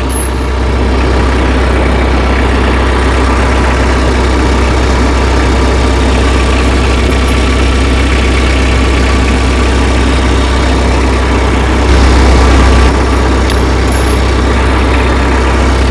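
Tractor engine idling steadily, with a brief louder surge about twelve seconds in.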